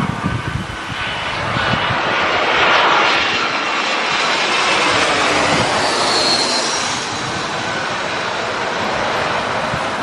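Jet airliner passing low overhead on final approach, its engine noise swelling to loudest about three seconds in and then carrying on as a steady rushing drone, with a faint high whine in the middle. Wind buffets the microphone at the start.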